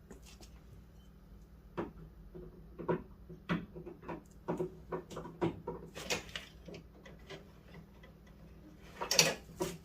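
Irregular small clicks and knocks of a replacement Fox body Mustang door handle being worked into the inside of the door, with a louder clatter near the end.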